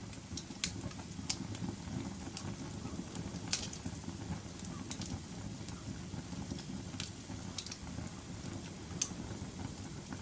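Wood fire burning in a fireplace: a steady low rumble of flames with irregular sharp crackles and pops, a few louder ones scattered through.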